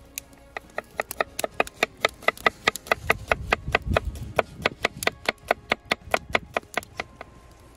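A kitchen knife chopping fast on a wooden cutting board, an even run of sharp knocks at about five or six a second that stops near the end.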